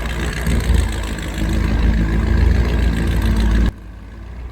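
Motorboat engine running under way with rough wind noise on the microphone; about three and a half seconds in the sound drops off abruptly to a much quieter low hum.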